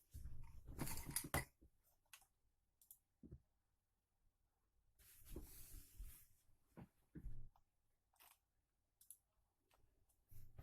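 Faint, scattered rustles and small clicks of things being handled, with a longer rustle about five seconds in.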